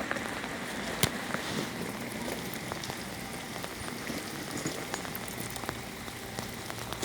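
Steady rain falling, with many small drop taps and one louder tap about a second in.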